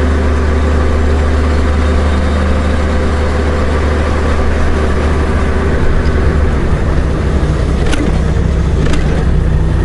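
Honda Gold Wing's flat-six engine running steadily under way, its note shifting about six seconds in.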